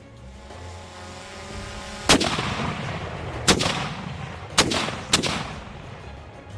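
Sound-effect cannon fire from a pirate ship: four shots, each a sharp boom with a long fading rumble, the first about two seconds in and the last two close together. Faint music plays before the first shot.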